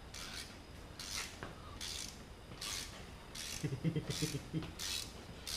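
A ratchet being worked in steady strokes, a burst of rasping clicks about every three-quarters of a second, as bolts are undone during engine removal.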